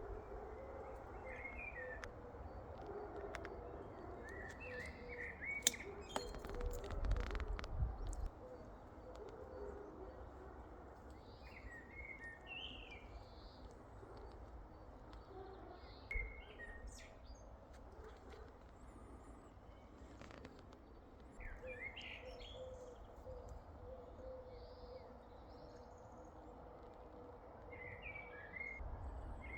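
Birds chirping in short phrases every few seconds. A low rumble with a few sharp clicks runs under the first eight seconds, and a faint steady hum comes in during the second half.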